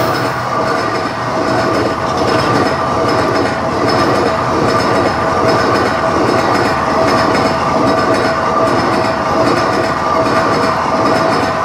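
Passenger coaches of a diesel-hauled express passing close by at speed: a loud, continuous clatter of wheels over the rails, with a steady tone running underneath.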